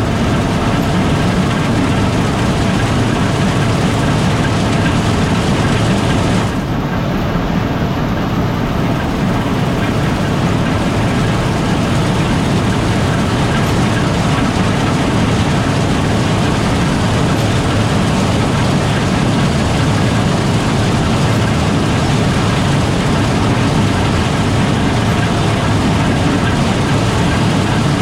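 Gleaner R72 combine running steadily while harvesting rye: a constant drone of engine and threshing machinery.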